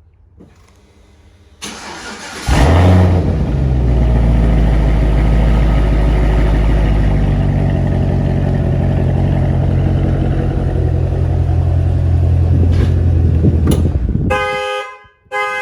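A 2012 Cadillac CTS-V's supercharged V8 cranks, catches with a brief rev and runs at a steady idle, then shuts off about fourteen seconds in. The car alarm then goes off right away, its horn sounding in pulses.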